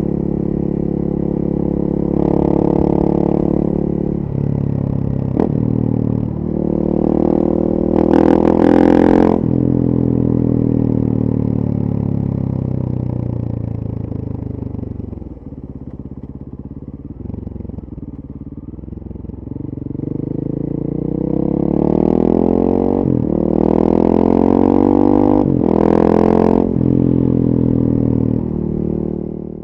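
2014 KTM 450 EXC supermoto's single-cylinder four-stroke engine through a full FMF 4.1 exhaust, accelerating hard with the pitch climbing and dropping at each upshift. In the middle it eases off to lower revs, then it pulls up through the gears again before fading out at the very end.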